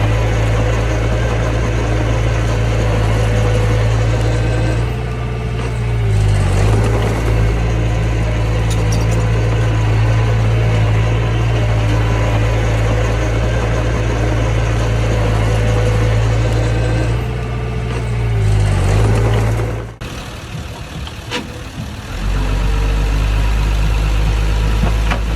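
Mini bulldozer's diesel engine running steadily, its note sagging and recovering twice as it takes load. Near the end the sound drops off abruptly for about two seconds, then comes back.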